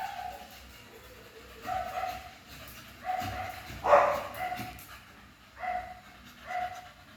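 Dog barking in a series of short calls, about eight of them; the loudest comes about four seconds in.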